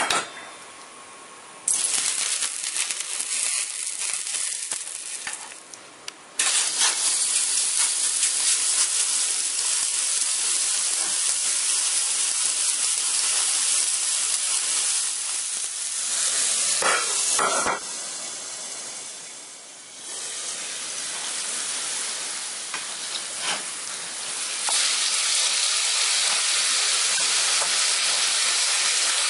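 Ground chicken frying in oil in a hot stainless steel pan, a steady sizzle. It starts suddenly about two seconds in and gets louder a few seconds later, with a couple of sharp knocks past the middle.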